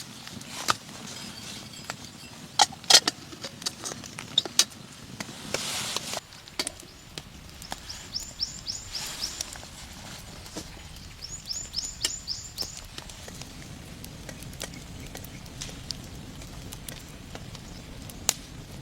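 Irregular sharp knocks and snaps, the loudest about three seconds in, with two quick runs of high chirps near the middle.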